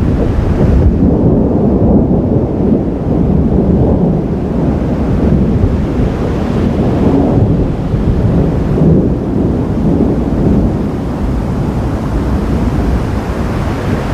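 Rolling thunder: a loud, low rumble that swells and eases several times without a sharp crack.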